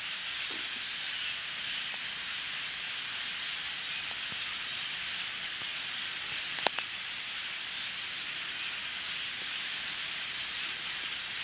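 Large flock of birds calling all at once, blending into a dense, steady din, with one brief click about six and a half seconds in.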